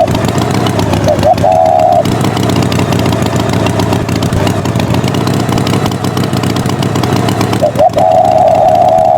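Tractor engine sound effect running steadily. A held, horn-like tone sounds twice over it: briefly about a second in, and for over a second near the end.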